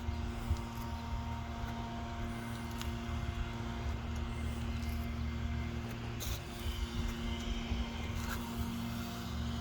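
1992 Buick Riviera's 3.8-litre V6 idling steadily, with a constant low rumble and hum.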